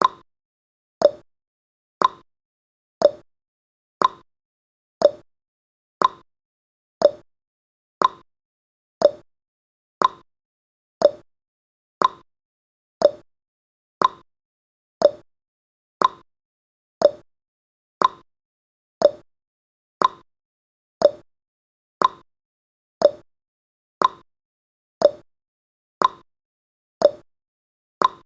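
Clock tick-tock sound effect ticking once a second, the clicks alternating between a higher and a lower pitch.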